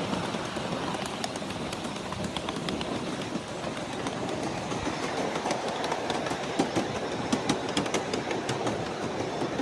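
Ride-on 7½-inch gauge miniature train running along the track, heard from aboard: a steady rumble of wheels on rail with sharp clicks over the rail joints, more frequent and louder in the second half.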